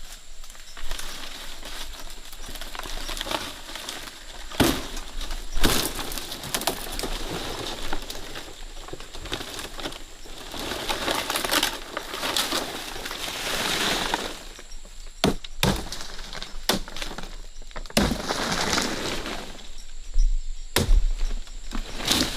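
Rustling with scattered sharp cracks and knocks.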